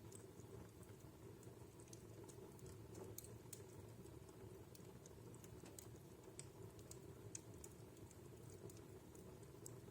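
Wood fire in a fireplace crackling faintly, with scattered sharp snaps and pops, about one or two a second, over a steady low background.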